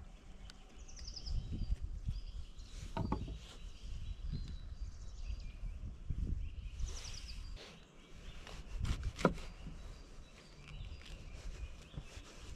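Outdoor woodland ambience: birds singing in short chirped phrases now and then, over a low rumble, with a couple of sharp knocks.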